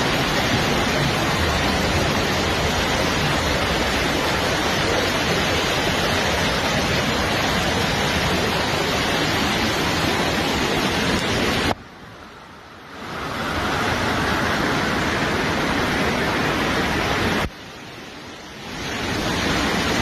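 Floodwater rushing in a torrent: a dense, steady roar of water. It cuts out abruptly twice, about twelve and seventeen seconds in, and swells back up within a second or two each time.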